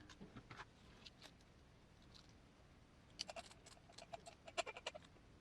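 Faint, scattered clicks and light scratching of a small hex driver and metal parts as grub screws are set into an RC crawler's driveshaft. A quick run of small clicks comes about three to five seconds in.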